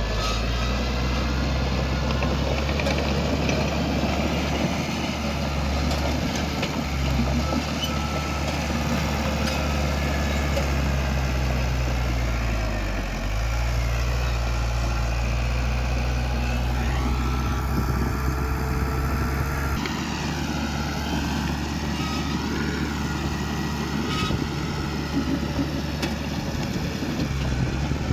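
Heavy-equipment diesel engine running steadily, with its pitch dipping briefly about halfway through before recovering.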